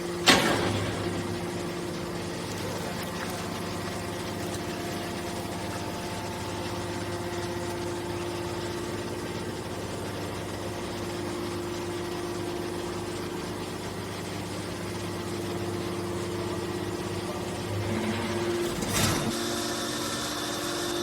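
Horizontal hydraulic baler running with a steady motor hum, with one loud bang just after the start and a burst of noise near the end.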